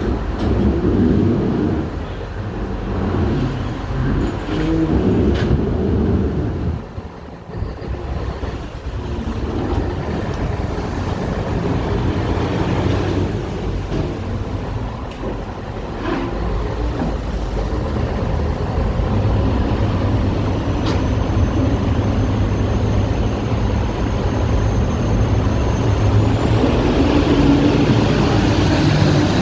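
The engines of a Thames Clipper river-bus catamaran, a steady low rumble that slowly grows louder as the boat gets under way from the pier. A high thin whine comes in over the second half and rises in pitch near the end.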